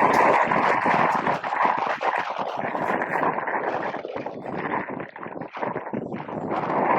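Gusting wind buffeting the pitch-side camera microphone, a loud, rough noise that rises and falls, with a brief lull about five seconds in.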